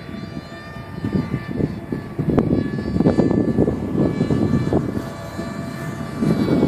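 HobbyKing Radjet radio-controlled plane's electric motor and propeller running with a steady whine, under heavy wind buffeting on the microphone that comes and goes in gusts and is louder than the plane.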